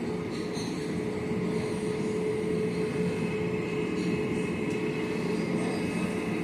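Steady mechanical drone with a constant mid-pitched hum and no breaks.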